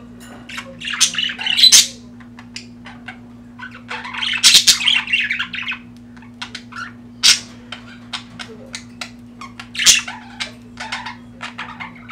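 Budgerigars chirping and squawking: two bursts of fast chatter, about a second in and around four to six seconds in, with sharp single calls between them, over a steady low hum.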